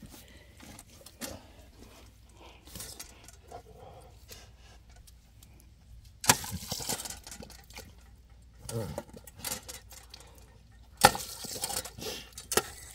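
Water spurting and splashing in short bursts from a step-activated dog water fountain as a dog plays at it, loudest about six, nine and eleven seconds in, with faint shuffling in between.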